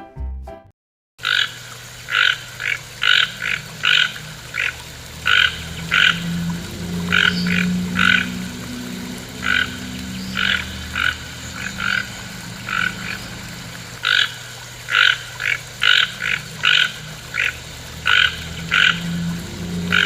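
Frogs calling: short repeated calls at an uneven pace, one to two a second, over a faint steady low drone. A snatch of music ends just before the calls begin.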